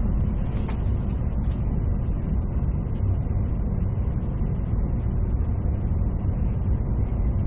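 Steady low rumble of an E657 series electric train running, heard from inside the passenger car.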